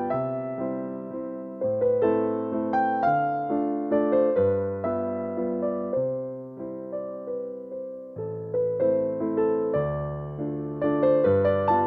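Background music: a gentle solo piano or electric piano piece, a melody of struck notes over bass notes that change every second or two.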